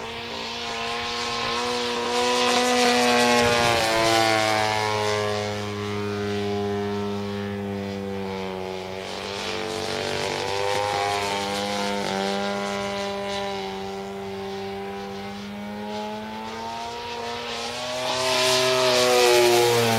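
50cc two-stroke petrol engine of a radio-controlled Edge 540 aerobatic plane in flight, its pitch gliding up and down as the plane passes and the throttle changes. It is loudest a few seconds in and again near the end.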